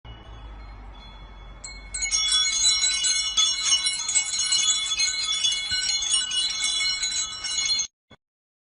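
Metal chimes ringing. There is a quieter start, then from about two seconds in many high tones are struck over and over and overlap in a jangle, which cuts off abruptly near the end.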